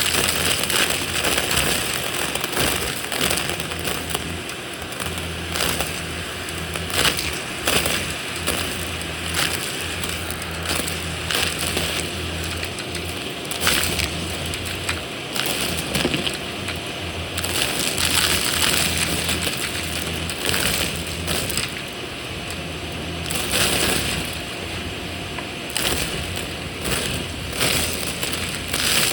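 Vacuum cleaner running and sucking up crunchy debris, with a steady motor hum under irregular crunches and rattles as bits are pulled in.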